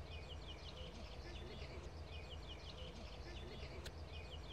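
Small birds chirping in quick runs of short, high, falling notes over a steady low background rumble, with one sharp click near the end.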